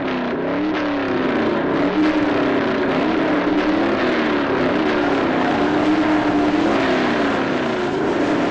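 Race car engine sound effects: an engine note that rises and falls over and over, with a dense noisy rush behind it.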